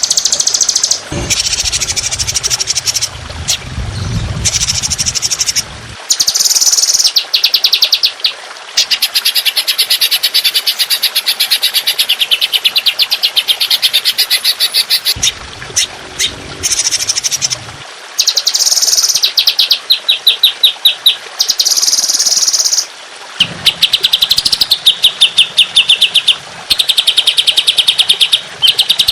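Songbird singing long runs of fast, evenly repeated high notes, the rapid-fire 'tembakan' phrases prized in Indonesian bird-song training recordings, broken by short pauses. A low rumble runs under the song in several stretches.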